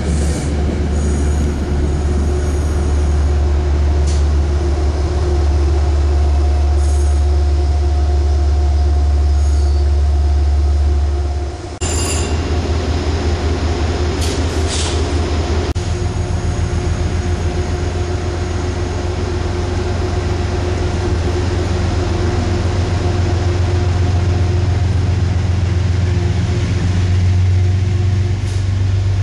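Metro-North commuter train rolling slowly alongside the platform and standing there: a loud steady low rumble with a thin steady whine over it. About 12 seconds in the sound breaks off briefly and resumes with the train at a stand, a few short clicks following.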